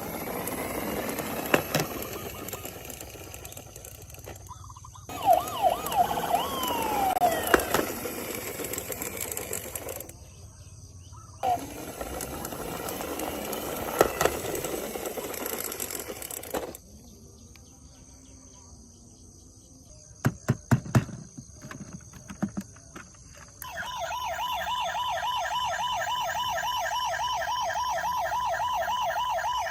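Electronic siren sounds from battery-powered toy emergency vehicles, in a run of short clips with abrupt cuts between them. Pitch glides sound in the earlier clips, and a few clicks come in a quieter stretch past the middle. For the last several seconds a rapidly warbling electronic toy siren plays steadily.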